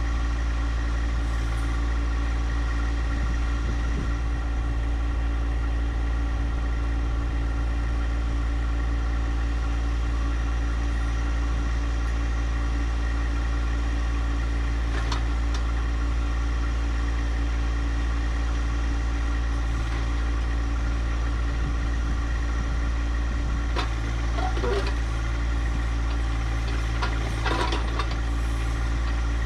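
Compact tractor's diesel engine idling steadily, with a few light clicks and knocks near the end.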